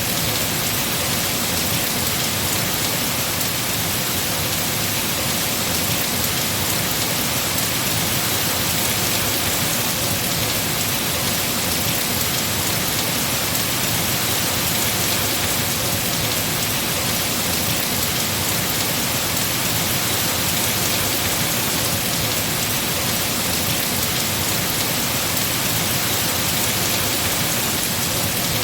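Heavy rain falling steadily on tree foliage: a dense, even hiss of drops with no letup.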